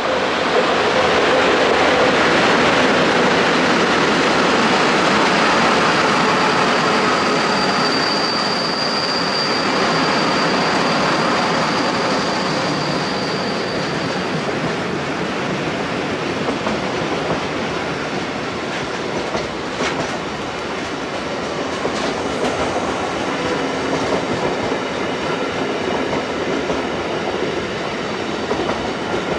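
Mixed freight train hauled by an ET22 electric locomotive rolling past, the wagons' wheels running loudly over the rails. A thin, high wheel squeal rises and holds from about a fifth of the way in to roughly halfway.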